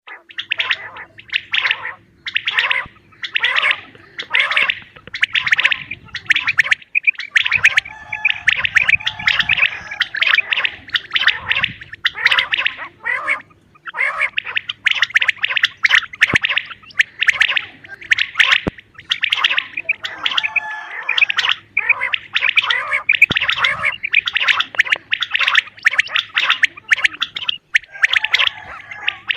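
Common quail calling: long runs of rapid, rasping repeated notes that break off briefly every few seconds and start again.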